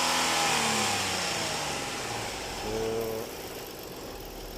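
A vehicle engine running, its pitch falling over the first second as it winds down, then running more quietly.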